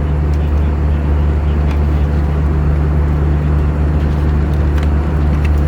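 Airbus A320 cabin noise in cruise: a steady low hum and airflow rush from the engines and slipstream, with a few faint clicks near the end.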